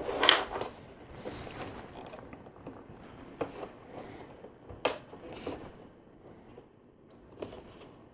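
Hands handling plastic LEGO pieces: rustling and scraping, with a few sharp clicks as parts are pressed together, the loudest rustle just after the start.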